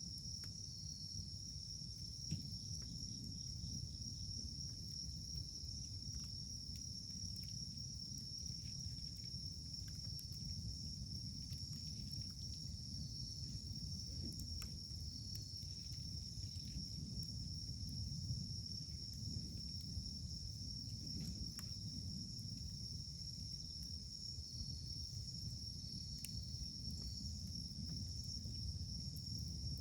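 Wood fire burning with a low rumble and a few sparse sharp crackles from the firewood, over a steady high-pitched insect trill that runs without a break.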